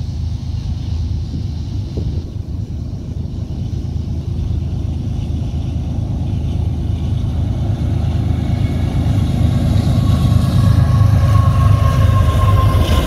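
Union Pacific diesel-electric freight locomotives approaching on the main line: a low engine rumble grows steadily louder. About eight seconds in a high steady whine comes in and dips slightly in pitch as the lead locomotive draws alongside near the end.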